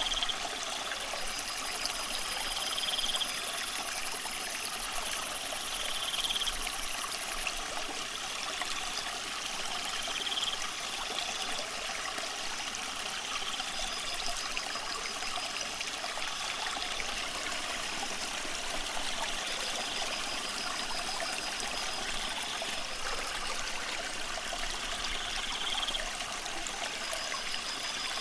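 Steady trickling and splashing of water in a fish tank, most likely the aquarium filter's return flow falling into the water.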